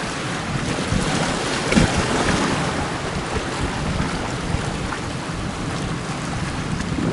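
Strong wind buffeting the microphone over the wash of sea surf, with a louder gust about two seconds in.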